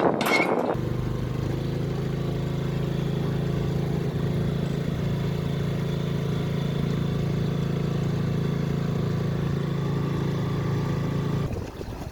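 Small 5 HP gasoline engine running at a steady, unchanging speed. It begins abruptly about a second in and stops abruptly near the end.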